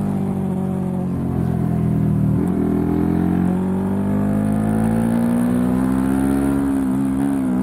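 Suzuki sport motorcycle's engine heard from on board, over wind rush. Its pitch falls for about two seconds as the bike slows, then climbs steadily as it accelerates, dipping briefly near the end.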